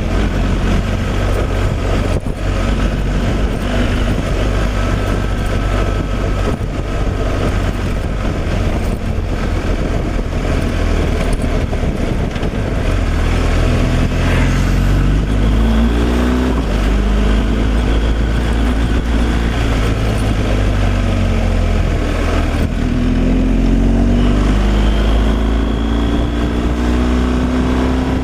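Heavy truck's diesel engine running under way with steady road noise. The engine note rises in pitch a few times in the second half as it accelerates.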